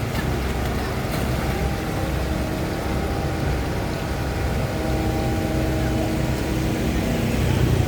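An engine running steadily with an even low hum and faint held tones, no revving or breaks.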